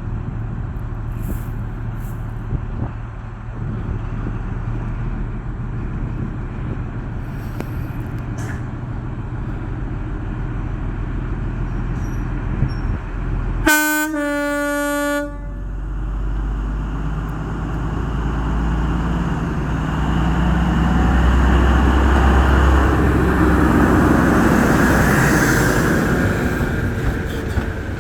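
A Class 43 HST power car sounds its two-tone horn about halfway through: a brief high note dropping to a lower one, about a second and a half in all. Before it there is a steady low diesel hum. After it the train's engine and running noise build up and are loudest a few seconds before the end.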